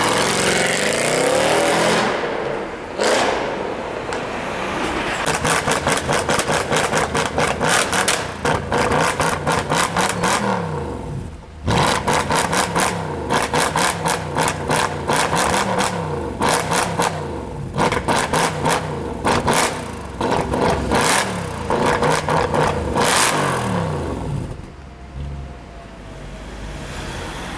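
Tuned performance car's loud exhaust revved over and over, the engine pitch sweeping up and down, with rapid sharp cracks and pops through most of it. It settles to a quieter steady idle near the end.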